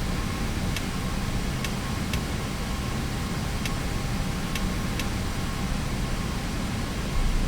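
Steady flight-deck noise of an Airbus A321neo on the ground after landing: a low rumble under an even hiss, with a few faint ticks.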